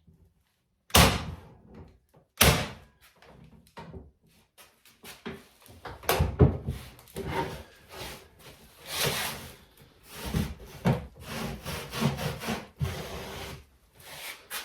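Cheap hand tack gun firing pins into wooden baseboard strips: two sharp shots about a second and a half apart near the start. These are followed by a run of shorter knocks and scraping as the wood is handled. The gun leaves some pins short of flush.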